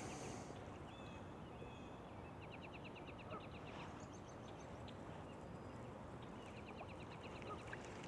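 Faint songbird singing: a rapid trill of about ten notes a second, given twice, with a few short whistled notes before the first, over a steady low outdoor hiss.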